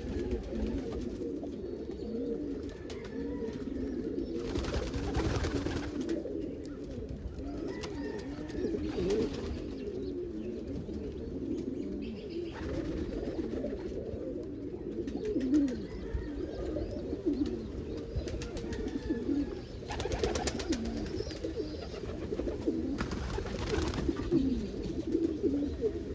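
Many domestic pigeons cooing together in a loft, a continuous overlapping chorus of low calls, with a few short whooshes of noise.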